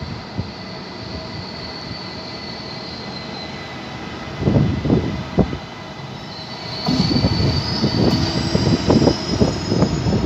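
A train moving through a station, its wheels squealing with a high, thin, wavering tone that fades and then comes back louder about seven seconds in, over an uneven low rumble.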